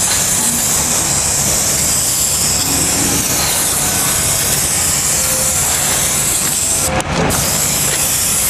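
Steady hiss of Prep Solve degreaser being sprayed from an aerosol can onto a wheel, with a brief break about seven seconds in.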